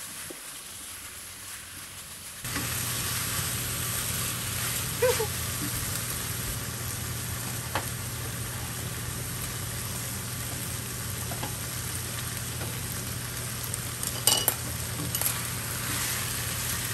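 Fish cakes, onion and green beans sizzling steadily in a frying pan as they are stir-fried. The sizzle jumps louder about two and a half seconds in, and a spatula knocks against the pan a few times as it stirs.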